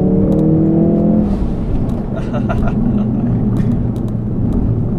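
Ford Focus RS's 2.3-litre turbocharged four-cylinder pulling hard under acceleration, its pitch slowly rising, then dropping away about a second in, leaving a steady rumble of engine and road noise.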